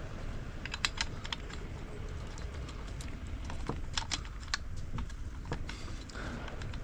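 Light metallic clicks and taps in irregular clusters: small engine parts being handled as the piston and gudgeon pin are fitted to the connecting rod of a brushcutter's two-stroke engine.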